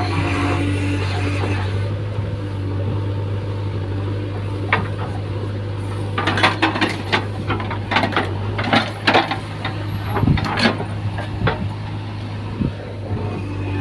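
Backhoe loader's diesel engine running steadily, with a clatter of knocks and scrapes from about six seconds in that dies away near eleven seconds.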